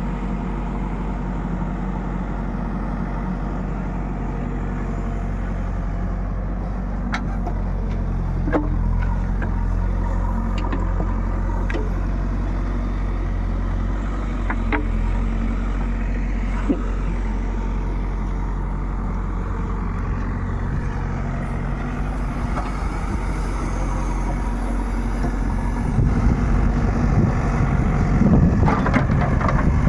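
Heavy diesel engine of construction or farm machinery running steadily, with a few scattered knocks in the middle. Near the end it gets louder and rougher, as if under load or revving.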